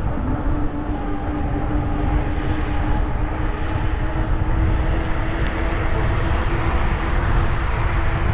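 Wind rumbling over the microphone of a camera on a moving e-bike, with the steady whine of the bike's electric motor running at an even speed.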